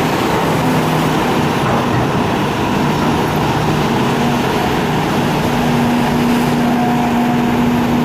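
Hitachi excavator's diesel engine running steadily under working load, its tone shifting a little with the hydraulics.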